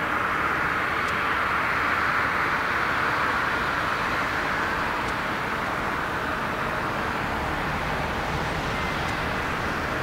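Jet engines of a landing airliner, a steady rushing noise that swells a couple of seconds in and then slowly fades as the plane passes.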